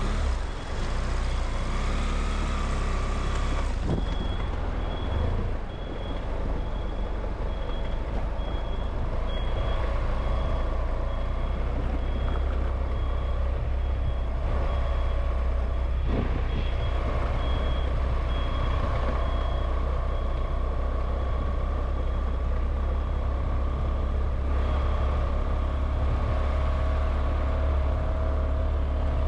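A heavy vehicle's reversing alarm beeping steadily for about twenty seconds, over the continuous low rumble of a vehicle on the move. The beeping starts a few seconds in and stops a few seconds before the end.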